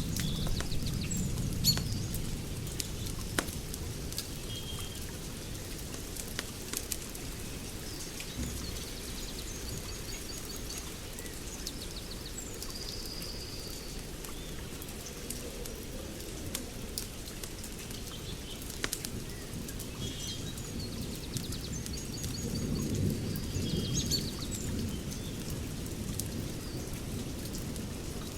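Wood fire crackling with scattered sharp pops, under birds chirping and twittering. A low rumble swells at the start and again about two-thirds of the way through.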